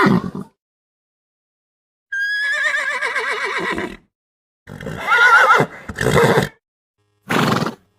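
Horse whinnying in several separate calls; the longest, about two seconds in, starts high and falls in pitch with a quaver, followed by shorter calls near the end.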